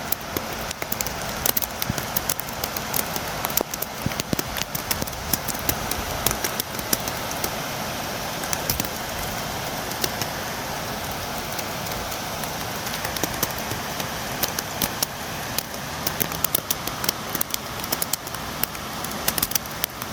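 Steady rain falling, with many sharp drops tapping against a window.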